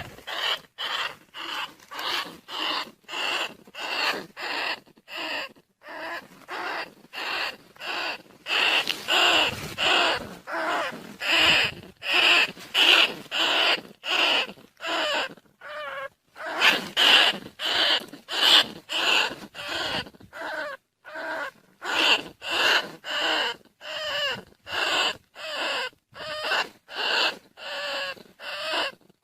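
Rat lure call: short squeaking calls of field rats repeated over and over, about two a second, used to draw rice-field rats and bandicoot rats in.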